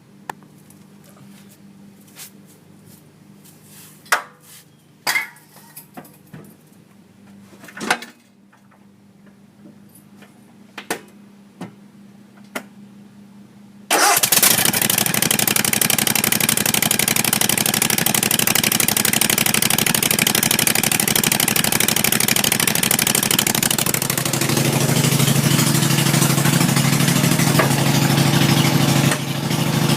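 A few sharp clicks and knocks, then about halfway through the straight-piped engine of a Cub Cadet RZT zero-turn mower starts suddenly and runs loud. About ten seconds later its note shifts lower and heavier.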